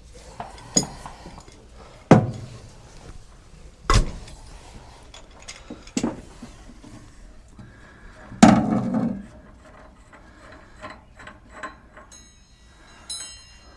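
A series of separate metal knocks and clunks, about five spread over several seconds, the loudest about eight seconds in with a short low ring after it. Lighter ticks follow, and a brief high-pitched ring comes near the end.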